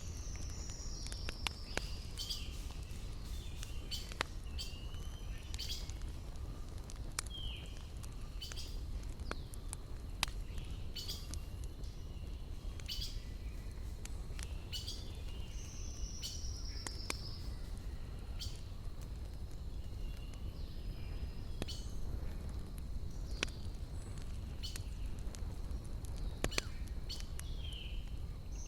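Wood fire crackling, with scattered sharp pops over a steady low rumble, while birds sing: a high, falling trill three times and short chirps in between.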